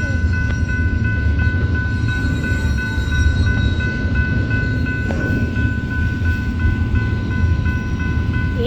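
Long freight train rolling past: a steady low rumble of the cars, with a steady high-pitched whine held throughout.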